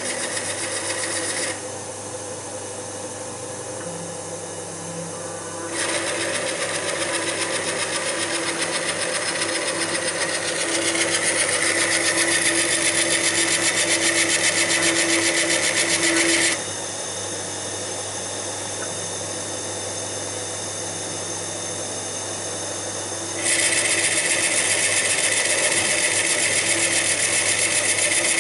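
HMT T70 CNC lathe running with a steady motor hum while the turning tool cuts wood in successive passes, giving a loud scraping hiss. The cutting stops about a second and a half in, resumes around six seconds, gets louder near eleven seconds, stops again around sixteen seconds and comes back around twenty-three seconds.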